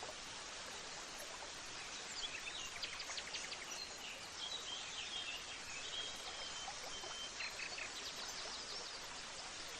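Outdoor nature ambience: a steady even hiss like running water, with birds chirping and giving short whistled notes from about two seconds in until near the end.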